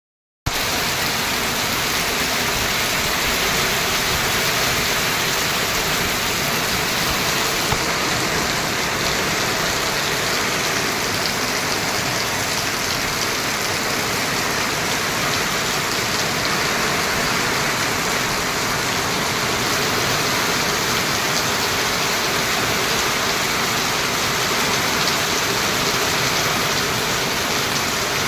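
Steady rain falling: an even, unbroken hiss of many drops that starts about half a second in and holds level throughout.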